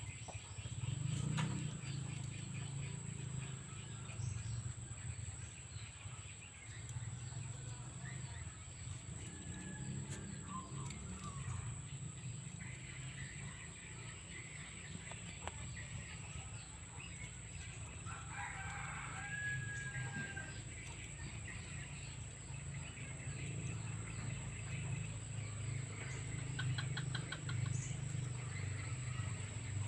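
Spotted dove cooing repeatedly, with short chirps of other birds over it and a steady high whine behind.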